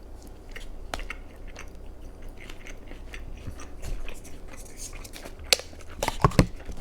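A person chewing a mouthful of pizza close to the microphone, with wet mouth clicks throughout. A few louder, sharper mouth or handling sounds come near the end.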